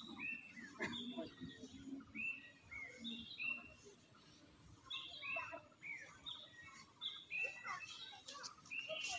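Birds chirping: short, downward-slurred whistled notes repeated in quick clusters, with a brief lull about four seconds in.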